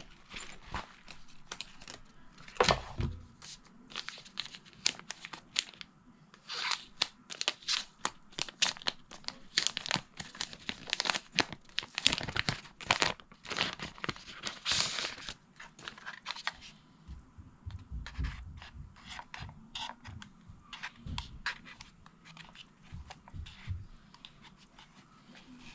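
Packaging being handled: irregular tearing and crinkling of wrapping with quick sharp clicks, busiest in the middle, and a few soft thumps near the end.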